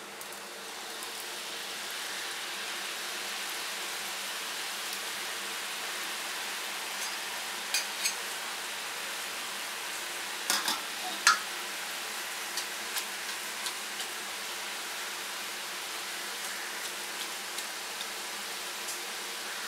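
Besan sev frying in hot oil in a stainless steel kadhai: a steady sizzle that builds over the first couple of seconds as the fresh strands are pressed into the oil, with a few sharp clicks around the middle.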